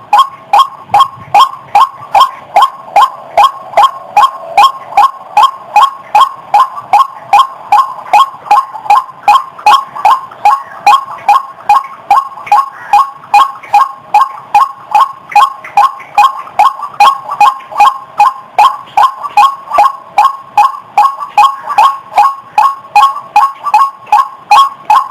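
White-breasted waterhen calling: an unbroken string of short, harsh 'wak' notes, each rising slightly in pitch, repeated evenly about twice a second.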